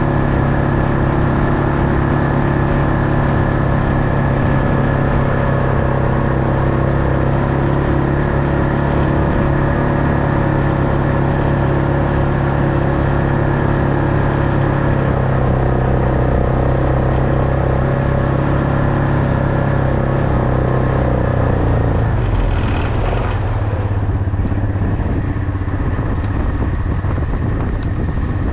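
A vehicle engine running steadily while under way. About 22 seconds in, the engine note drops and settles lower.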